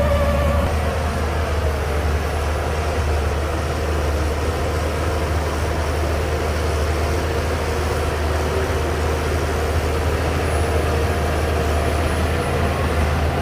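Shantui DH17C2 bulldozer's diesel engine running steadily with a deep, constant drone, over a rough clatter of the machine at work.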